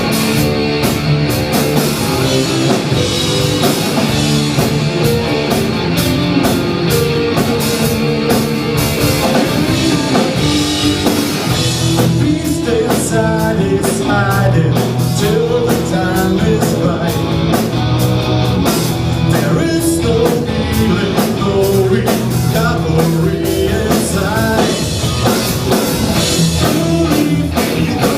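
Rock band playing live: electric guitars and a drum kit, with a voice singing over them from about halfway through.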